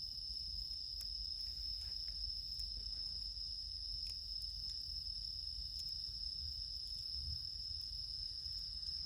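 A chorus of crickets trilling, a steady high-pitched sound, with a few faint clicks from the campfire crackling.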